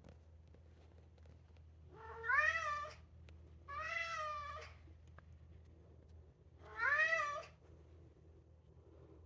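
Maine Coon cat meowing three times in long, drawn-out calls, each rising and then falling in pitch.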